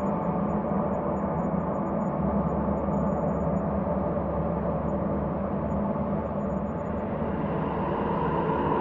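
Ambient space drone: a steady, dense bed of many held tones with a deep rumbling low end. It grows brighter toward the end.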